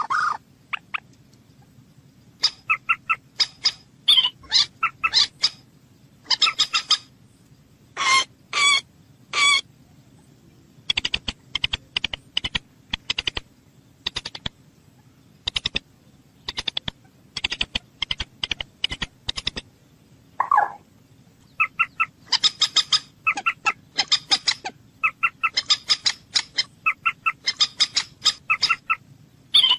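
Moorhen calling: runs of short, sharp call notes several to a second, broken by brief pauses, with one longer, lower call about two-thirds of the way through.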